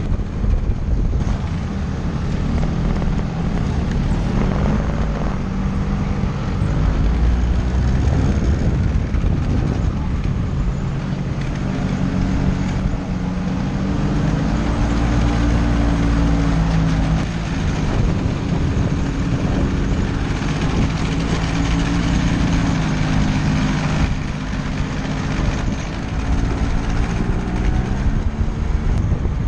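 Motor scooter engine running under way, its pitch rising and falling with the throttle, over steady low rumble and wind noise on the microphone.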